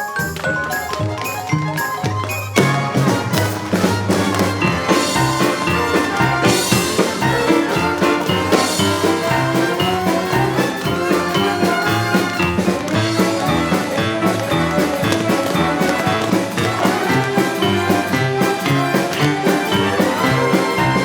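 Live theatre orchestra playing an upbeat swing-style instrumental with a quick, steady beat of drums and percussion; the music fills out and grows louder about two and a half seconds in.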